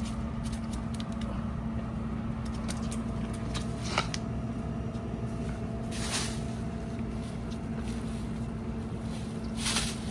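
A steady low mechanical hum with one constant tone, with a sharp click about four seconds in and brief rustling noises about six seconds in and near the end.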